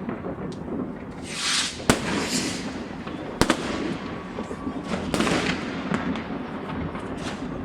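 Fireworks and firecrackers going off in many places at once: a steady scatter of bangs and crackling, with two sharp, loud bangs about two seconds and three and a half seconds in, and hissing crackle bursts between them.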